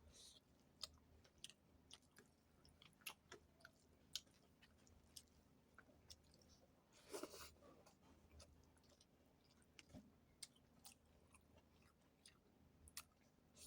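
A person chewing food close to the microphone: soft, irregular wet mouth clicks and smacks. One louder, longer sound comes about seven seconds in.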